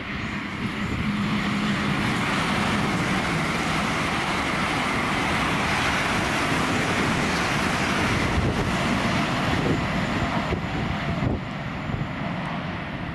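LNER Azuma high-speed train passing at speed: a steady rushing roar of wheels on rail and moving air, which builds over the first two seconds, holds, and eases a little near the end.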